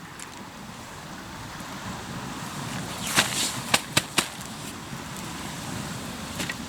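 Hardwood campfire crackling: a quick cluster of sharp pops a few seconds in, followed by three single pops, over a steady wash of waves.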